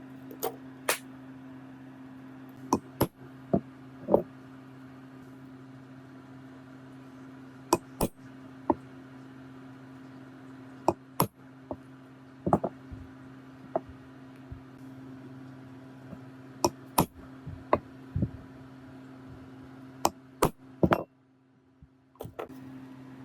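Irregular sharp clinks and knocks of metal parts being handled and set down, about twenty over the span, over a steady low hum. The sound drops out briefly near the end.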